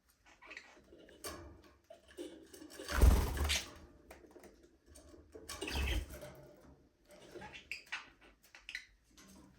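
Budgerigars chirping and chattering in short scattered calls, with two louder rustling, thumping bursts about three and six seconds in.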